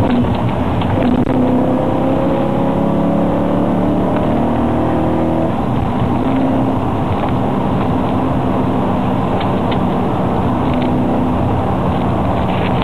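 Car engine heard from inside the cabin at highway speed, its pitch climbing for about five seconds under acceleration, then dropping and settling into a steady drone with road and wind noise.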